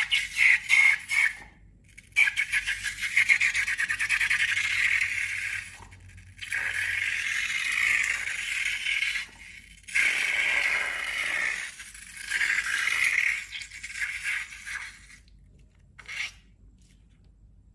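Slime being squeezed and worked by hand, giving crackly, scraping squelches in a series of bursts from under a second to about four seconds long, with short pauses between.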